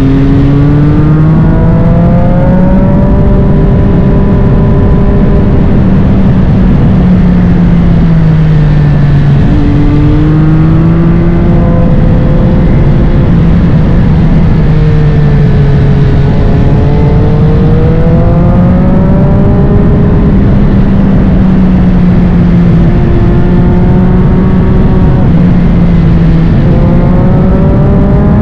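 Triumph Street Triple 765 RS's three-cylinder engine through a Spark Grid-O full exhaust, riding along with its pitch climbing and dropping repeatedly as the throttle opens and closes, over a constant rushing noise.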